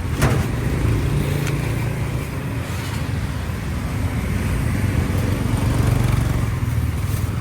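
Motorcycle engine running steadily while riding, with a constant low hum and road noise.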